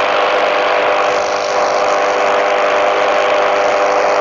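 Loud, steady jet engine noise with several steady whining tones from the Surya Kiran team's BAE Hawk jet trainers flying toward the crowd.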